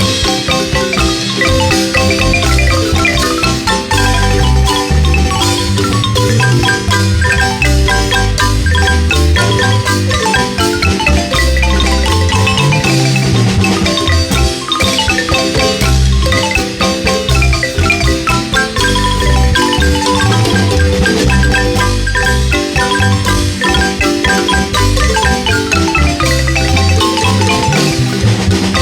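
Marimba ensemble playing a Guatemalan son, quick mallet notes over a steady, repeating bass line.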